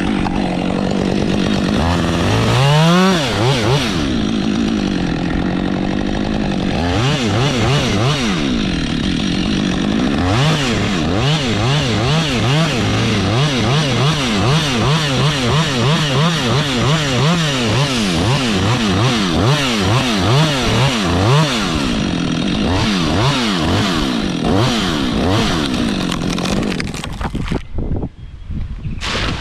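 Chainsaw cutting into a large dead gum, run up to full throttle a couple of seconds in, its engine pitch repeatedly dipping and rising as the chain bites through the wood, then dropping off near the end.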